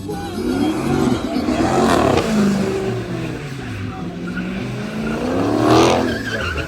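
Car engine revved twice, each rev climbing in pitch; the second, near the end, is the louder.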